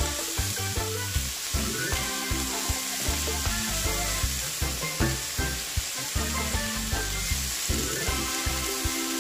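Shredded cabbage and vegetables sizzling in a cast-iron skillet as they are stirred and tossed with a wooden spoon, with scattered scrapes and clicks of the spoon against the pan. Background music plays underneath.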